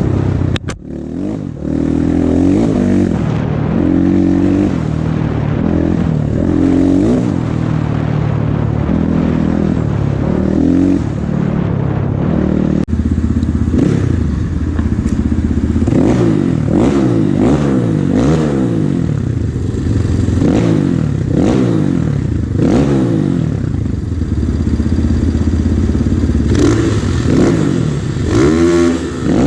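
Off-road motorcycle engine running under way, its pitch rising and falling again and again as the throttle is opened and closed, with some clatter.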